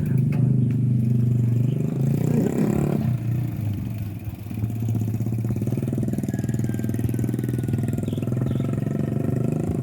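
An engine running steadily nearby, with an even low pulsing hum, its pitch shifting briefly a few seconds in.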